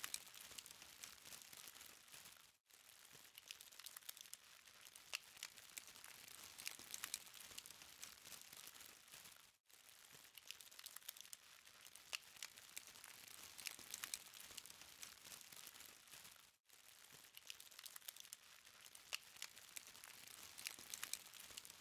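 Burning charcoal crackling faintly, a dense patter of tiny ticks and pops. The sound cuts out for an instant about every seven seconds, three times.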